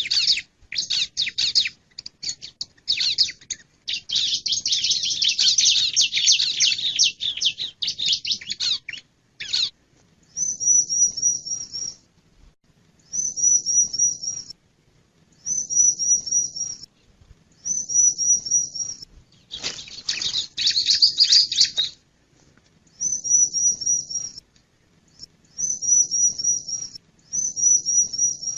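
Male bar-winged prinia (ciblek) calling: dense, rapid high chattering for the first ten seconds, then short high phrases of about four quick repeated notes, each phrase about a second long, coming every two to three seconds, with another burst of chatter about twenty seconds in.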